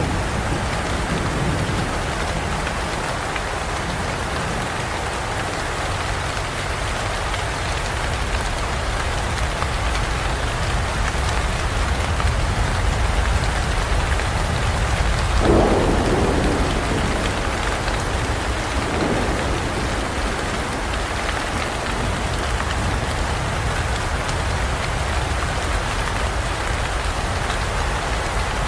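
Rainstorm in a forest: steady rain falling, with a low rumble of thunder about halfway through and a fainter rumble a few seconds after.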